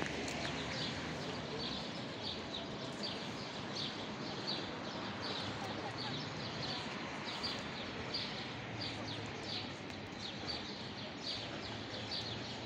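A small bird chirping over and over, short high chirps about two to three a second, over steady outdoor background noise.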